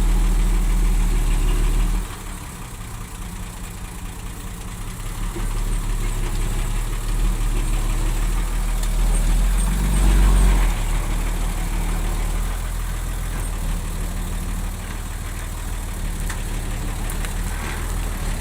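Diesel engine of heavy earthmoving machinery running at low revs. It drops suddenly in level about two seconds in, swells again to a peak about ten seconds in, then settles to a steady lower hum.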